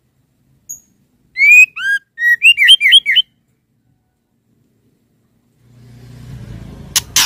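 Female white-rumped shama giving a quick run of clear, curving whistled notes about a second in, lasting around two seconds. Near the end a low rumble starts, with two sharp clicks.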